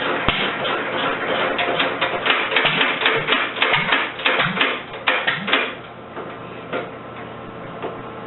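Rebuilt International Harvester LA single-cylinder engine running with a fast, dense mechanical clatter, which dies away about six seconds in, leaving a quieter steady hum.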